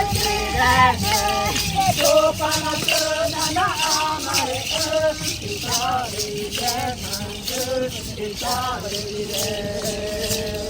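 Voices singing a chant with hand rattles shaken in a steady rhythm.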